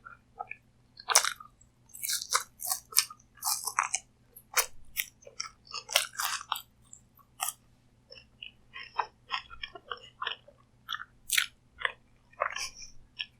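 Close-miked chewing and crunching of crunchy food, a dense run of irregular crisp crackles.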